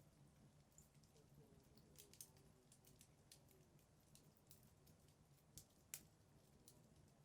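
Wood fire burning in a fireplace, crackling faintly with scattered small pops; the sharpest pops come about two seconds in and just before six seconds. A low steady hum runs underneath.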